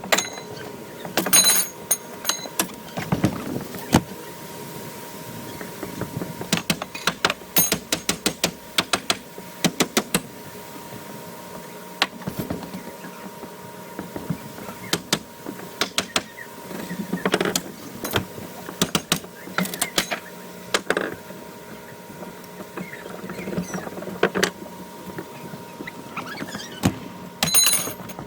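Wooden deck being demolished, played back sped up: irregular clusters of quick knocks and clatters with creaks and squeaks of wood and nails as boards and posts are pried and struck apart.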